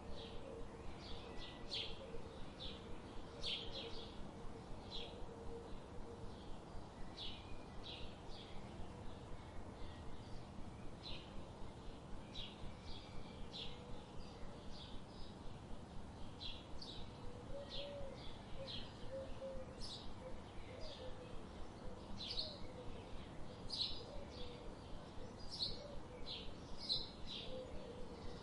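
Small birds chirping: short, high chirps repeating irregularly a few times a second, over a steady background hiss, with fainter low wavering notes now and then.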